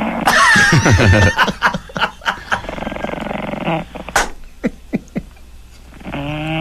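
English Bulldog puppy snoring, heard over a telephone line.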